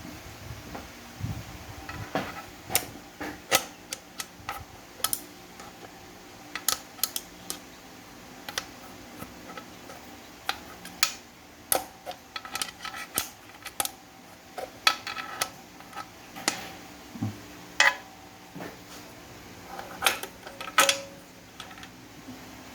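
Irregular metallic clinks, clacks and taps of steel parts and tools being handled while a Ford 5R55S automatic transmission is taken apart, over a steady fan hum.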